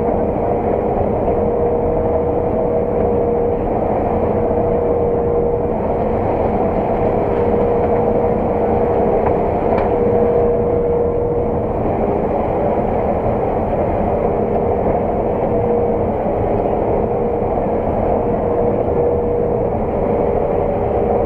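Claas combine harvester running steadily while cutting oilseed rape: a constant mechanical drone with a steady whine.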